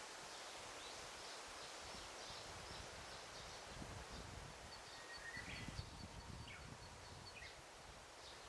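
Faint forest ambience: a steady hiss of rustling leaves with small birds chirping, and from about the middle a bird repeating a short high note about five times a second for a couple of seconds. Low rumbling gusts come and go in the middle.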